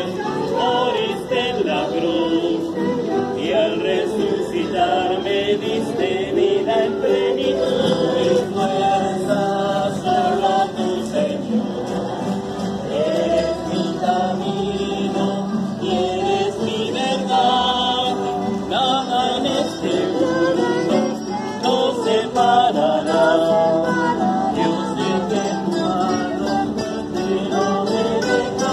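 A group of people singing a hymn together, accompanied by strummed acoustic guitars.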